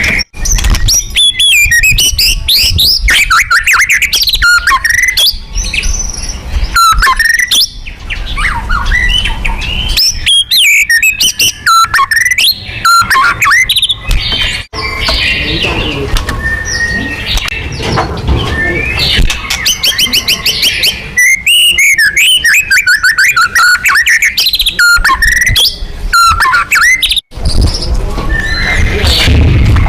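White-rumped shama (murai batu) singing loudly and continuously: fast, varied phrases of clear whistles, rapid trills and chattering notes, broken off by a few short, abrupt gaps.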